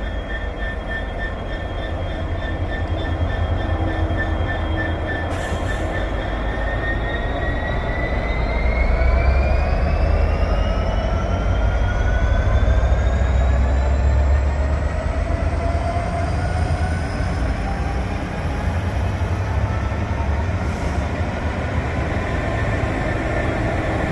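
Train at the platform with a heavy low rumble and a steady high whine that, about a third of the way in, begins rising steadily in pitch as the train gathers speed pulling away.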